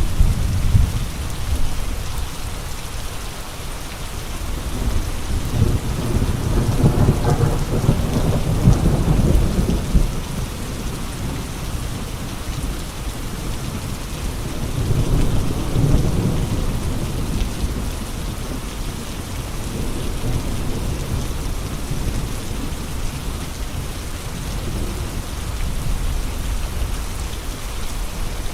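Steady rain with gusting wind, rising into deep rumbling swells about six seconds in and again around fifteen seconds.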